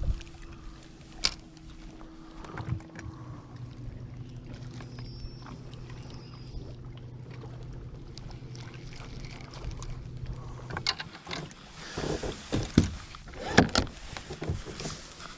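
A boat motor hums steadily, drops to a lower pitch about three seconds in and stops about eleven seconds in. Irregular knocks and rattles follow near the end.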